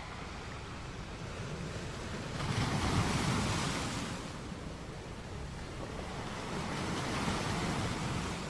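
Sea waves washing ashore: a steady rush of surf with one wave breaking and swelling about two and a half seconds in, then a gentler one near the end.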